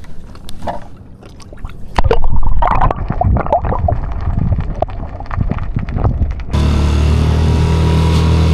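Clicks and knocks, then about two seconds in a sudden loud stretch of splashing and knocking at the boat. Near the end this cuts abruptly to a Tohatsu outboard motor running steadily.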